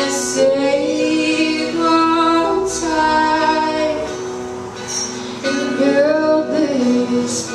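Acoustic song: a voice singing over plucked acoustic guitar.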